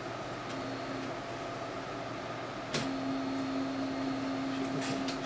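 Inkjet printer's internal motor humming steadily. It comes on strongly with a click about three seconds in, and a few light clicks follow near the end, as the printer runs its mechanism while stuck in a service-error loop.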